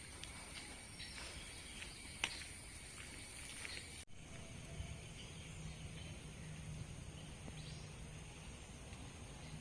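Faint outdoor ambience with a steady high-pitched insect chirring and a few sharp little clicks in the first half. The sound drops out for an instant about four seconds in.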